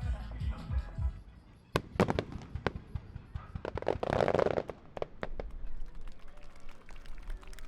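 Aerial firework shells bursting in a run of sharp bangs, with a short crackling swell about four seconds in. A music soundtrack plays under the first second.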